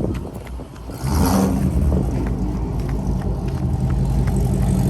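A car engine running close by, getting suddenly louder about a second in with a short rush of noise, then holding a steady low drone.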